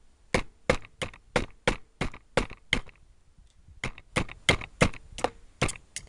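Small axe chopping into wood in quick, light strokes, about three a second, with a pause of about a second near the middle before the chopping resumes.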